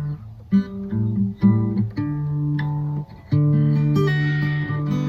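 Guitar playing the instrumental introduction to a song: plucked chords ring out in phrases with short breaks between them.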